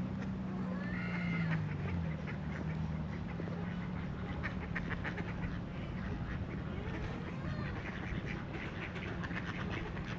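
Ducks quacking in runs of quick calls, with a steady low hum underneath.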